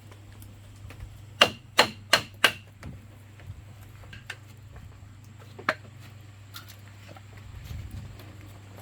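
Hammer blows on bamboo: four quick strikes a little after a second in, then a single strike about halfway through, with a few light taps between.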